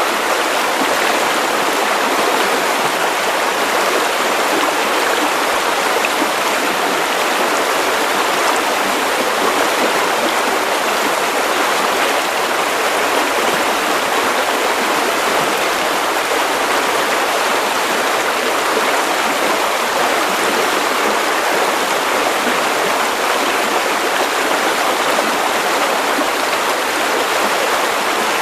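Steady white noise for sleep: an even, unchanging hiss with little deep bass.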